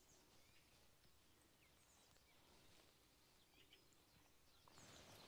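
Near silence with faint birds chirping: a few short, high calls scattered throughout. A faint hiss of noise rises near the end.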